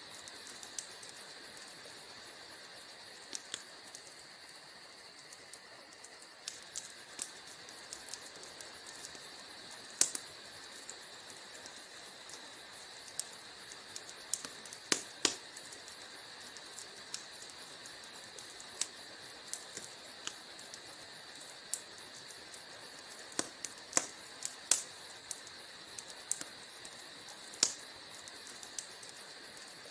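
Wood fire crackling in a fireplace: irregular sharp pops and snaps, a handful much louder than the rest, over a steady high-pitched trill.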